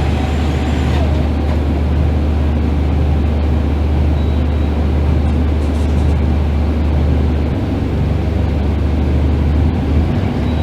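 Scania K310IB bus's diesel engine running under way with a steady deep drone; its note shifts about three-quarters of the way through and again near the end.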